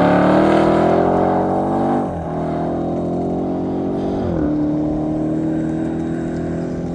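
Racing motorcycle engine accelerating hard, its pitch climbing between two upshifts, one about two seconds in and another about four and a half seconds in.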